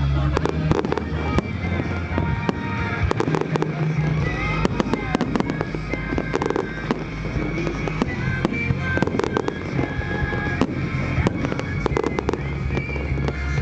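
Fireworks display: rapid shell bursts and crackling bangs, many in quick succession, over loud music playing alongside the show.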